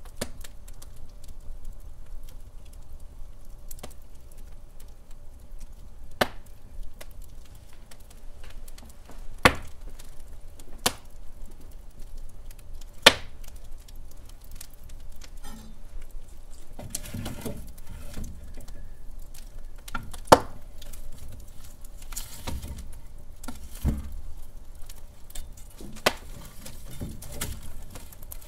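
Wood fire crackling in a fireplace: sharp snaps and pops every few seconds over a low steady rumble of the burning logs, with denser, softer crackling in the second half.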